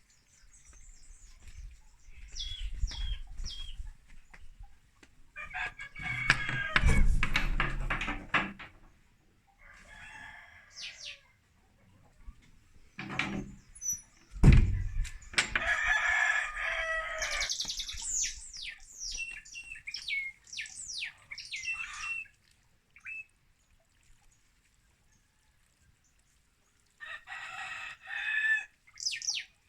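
Rooster crowing several times, the loudest crow about a quarter of the way in, with small birds chirping in quick falling notes between the crows. A short low thump comes about halfway through.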